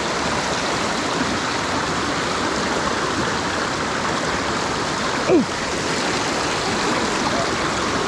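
Mountain stream rushing over rocks: a steady noise of flowing water. About five seconds in, a brief louder sound slides down in pitch.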